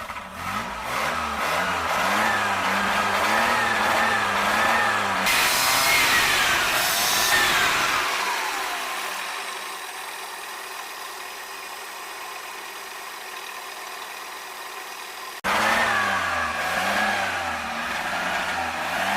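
Maruti Suzuki 800's small three-cylinder petrol engine, just brought back to life after years unused, revved repeatedly up and down, then the revs fall away into a quieter stretch. About 15 seconds in the revving starts again abruptly.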